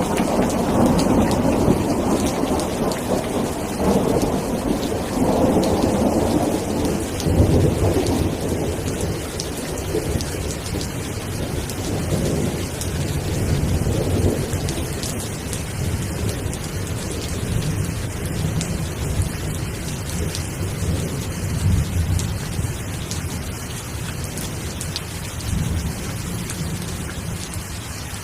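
Steady rain falling with a low roll of thunder that rumbles through the first half and dies away toward the end.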